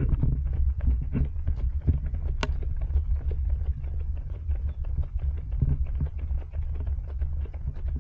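Running footsteps of several runners, quick irregular slaps and taps, over a steady low rumble from the body-worn action camera's microphone.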